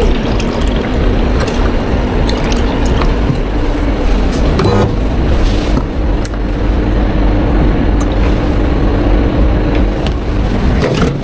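Steady rush of running liquid over a low motor hum, continuous throughout.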